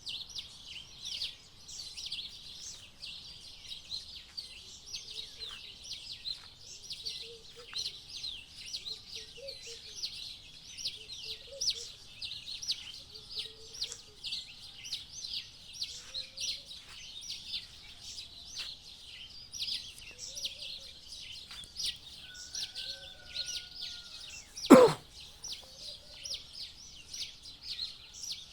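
Dawn chorus of many small birds chirping rapidly and without pause, with softer, lower calls in between. One sharp knock sounds near the end.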